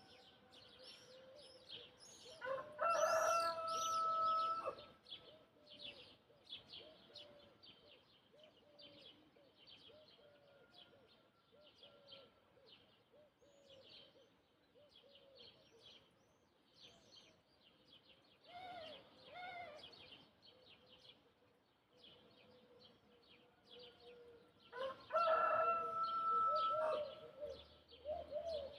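A rooster crows twice, each crow a long call of about two seconds held on one pitch, with a shorter, quieter call in between. Small birds chirp throughout.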